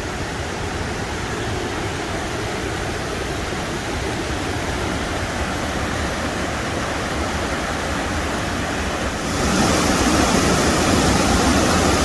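Waterfall rushing in an even, steady hiss that grows louder and brighter about nine seconds in.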